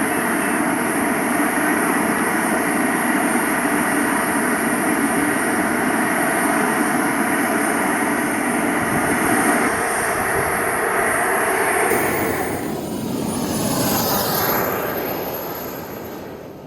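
SW220B model jet turbine running with a steady rushing jet noise and a high whine; about twelve seconds in the whine rises in pitch, the sound swells once more, then fades away.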